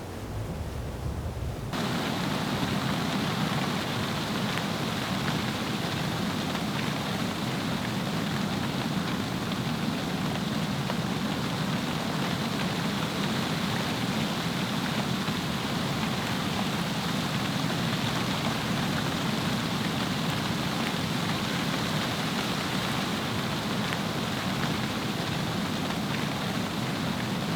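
Steady rain pattering, stepping up suddenly to a louder, even hiss about two seconds in.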